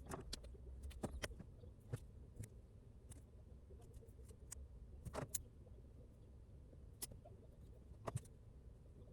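Faint, irregular sharp clicks and taps, a few seconds apart, over a steady low rumble.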